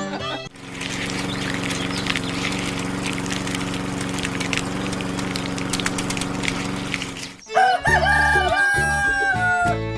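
A rooster crows once, a long held call that falls slightly at its end, starting about two and a half seconds before the end. Before it runs a steady hum with rapid fine clicking.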